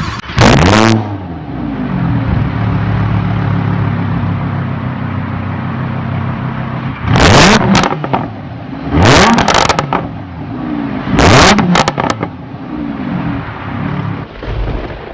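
Lamborghini Huracán LP610-4's naturally aspirated V10 revving sharply near the start, settling to a steady idle, then blipped up hard three more times about two seconds apart.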